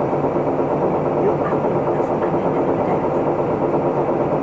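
Isuzu Erga Mio route bus's four-cylinder diesel engine running steadily, heard from inside the passenger cabin.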